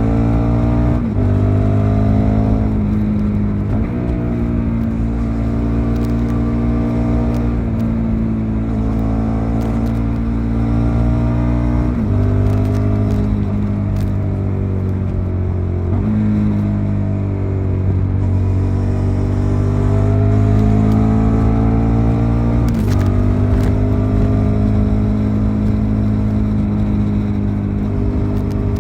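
Suzuki SV650's 90-degree V-twin engine heard onboard while riding, its note rising and falling with the throttle, with sudden steps in pitch about five times as gears change.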